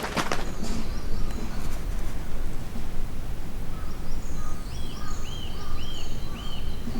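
Small songbirds calling in a forest, with short arched notes repeated about twice a second that come in the second half, over a steady low background noise.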